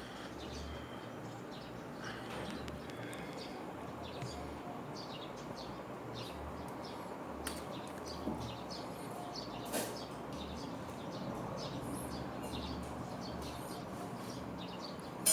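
Small birds chirping with short, scattered calls throughout, over a faint low hum.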